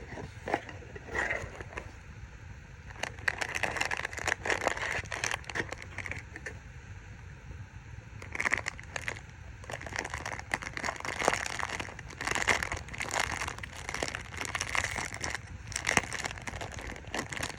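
Packaging crinkling and rustling as a parcel is unpacked by hand, with many irregular crackles and small clicks throughout.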